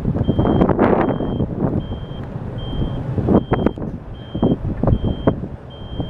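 Strong wind buffeting the microphone in loud, uneven low rumbles. Over it a high electronic beep repeats steadily, about eight times, roughly one every 0.8 seconds, like a backup alarm.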